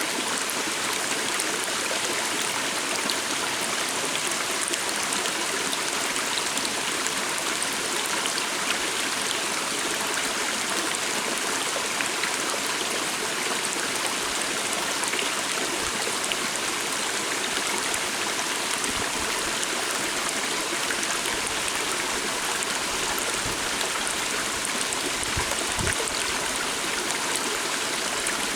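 A calm water stream flowing steadily: an even, continuous rush of running water with no change in level.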